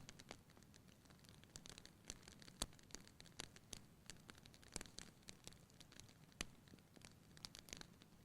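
Wood fire burning in a fireplace, crackling with irregular sharp pops and snaps, several a second, over a soft low hiss.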